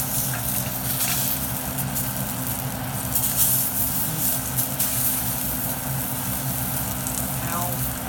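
Food frying in a pan: a steady sizzle with fine crackling, over a steady low hum.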